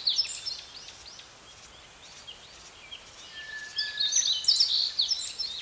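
Wild birds chirping and singing in quick, high, repeated notes, busiest at the start and again about four seconds in, over a faint steady hiss.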